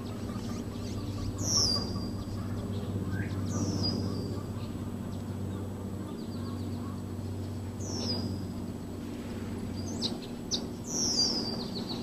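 Small wild songbird giving short high calls, each sliding down in pitch, about four times, over a steady low background rumble.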